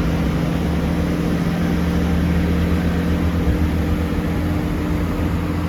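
Diesel engines of a Great Western Railway Class 166 diesel multiple unit running steadily at the station platform, a constant low drone with a steady hum.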